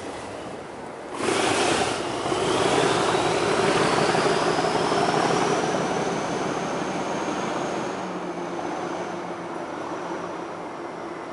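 Train of unpowered Class 730 electric multiple units being hauled past by a Class 37 diesel locomotive: the noise rises sharply about a second in and carries a whine that climbs steadily in pitch for several seconds as the locomotive is opened up. The sound then eases off as the train moves away.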